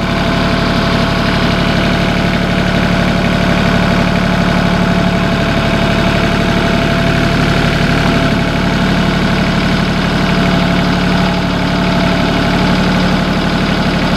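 Small four-cylinder Mitsubishi diesel engine of a Mahindra Max 22 HST compact tractor idling steadily.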